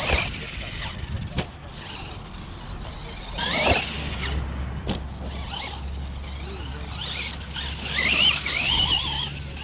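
Losi LMT RC monster truck's brushless electric motor whining up and down in pitch as it is throttled, twice, with a few sharp knocks in between.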